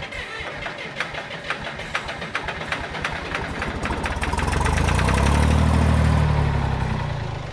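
Old John Deere bulldozer engine being cranked over by its starter. The knocks quicken over the first few seconds, then a low drone swells and fades near the end as it tries to fire without running. Someone judges a cylinder to be saturated with oil.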